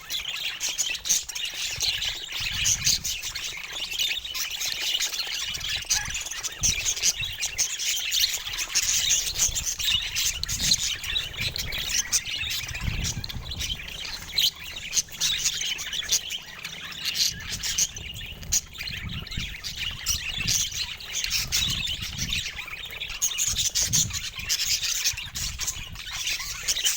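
Budgerigars chattering and warbling: a continuous run of quick chirps and squawks.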